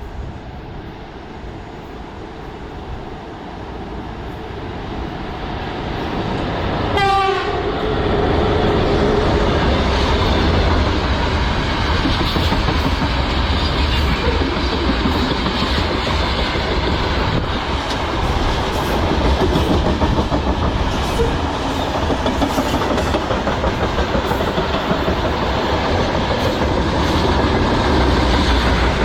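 A VL10U electric locomotive approaches and grows louder. It sounds its horn briefly about seven seconds in, then passes close by with its train clattering over the rail joints.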